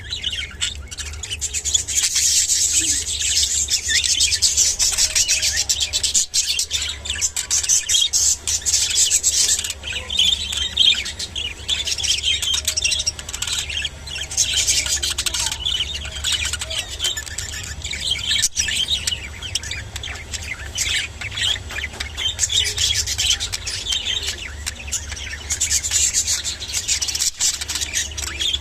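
Budgerigars chattering and warbling without a break, a dense mix of quick chirps and squawks, over a steady low hum.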